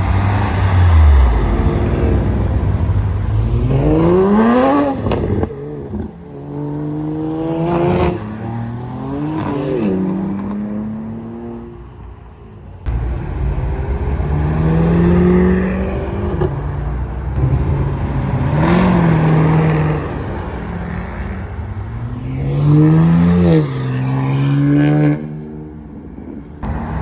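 Cars accelerating away one after another, their engines revving up through the gears, the pitch climbing and dropping back at each gear change.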